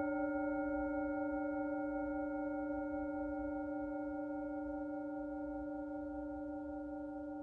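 Singing bowls ringing on after being struck: several steady tones sounding together, slowly dying away.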